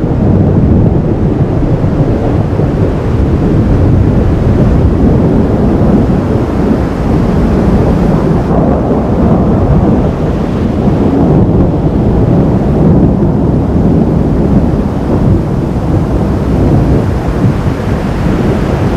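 Thunder rumbling on without a break, low and loud, mixed with wind noise on the microphone.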